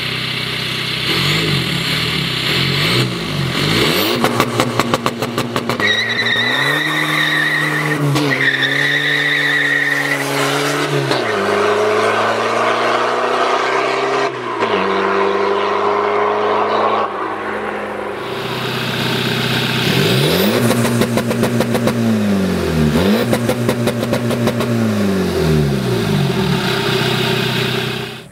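Straight-piped VW Passat B3 with a swapped pump-düse turbodiesel engine, revved hard several times. About six seconds in it is held at high revs with a steady high whistle, then it pulls with the pitch climbing steadily. Near the end it gives a run of quick rev blips.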